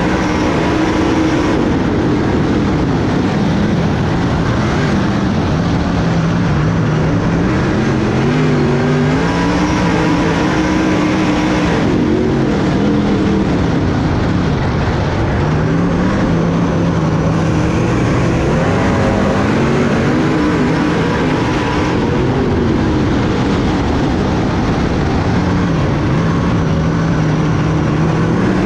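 Race car engine running hard on a dirt track, its pitch repeatedly climbing as it accelerates and dropping as it backs off, a few seconds per cycle.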